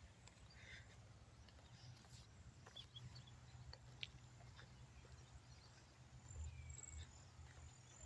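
Near silence: quiet evening outdoor ambience with a low rumble and a few faint scattered ticks and high chirps.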